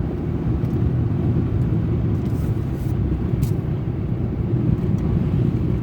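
Car road noise heard from inside the cabin with the windows rolled down a bit: a steady low rumble of tyres and engine while driving through town.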